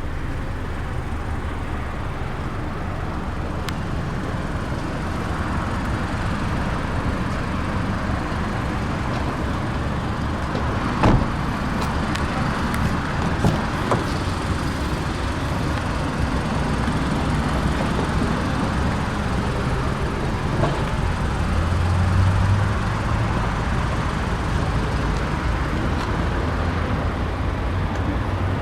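Steady low vehicle rumble and road noise, with a few sharp clicks about eleven and thirteen seconds in.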